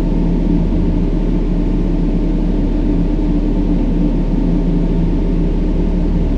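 Steady brown noise, a deep even hiss with most of its weight in the low range, with faint low tones held unchanging underneath.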